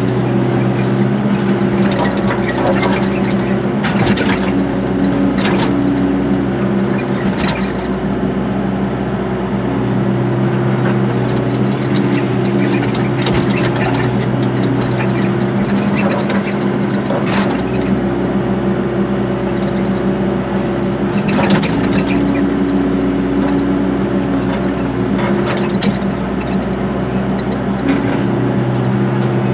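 Excavator's diesel engine running steadily under load, its note shifting now and then as it works, with scattered sharp cracks and clanks.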